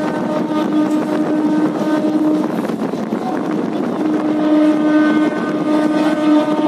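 Running noise of a moving train heard from on board at an open window or door: a steady rumble with air rushing past the microphone. Over it is a humming tone that drops away in the middle and comes back about four seconds in.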